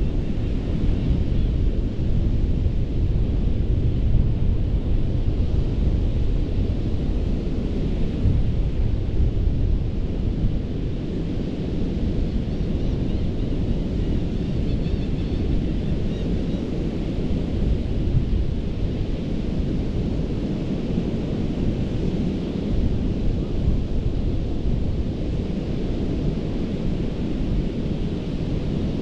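Gulf of Mexico surf washing steadily onto a sandy beach, under a heavy low rumble from wind on the microphone. A fainter hiss of breaking water swells and eases slowly.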